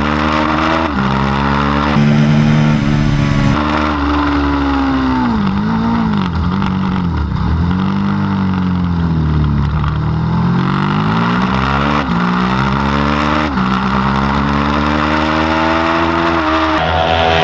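Racing motorcycle engine at full throttle, its pitch climbing and dropping back with each upshift. Around the middle the revs swoop down and up several times as it downshifts for a corner, then it climbs through the gears again with shifts near the end.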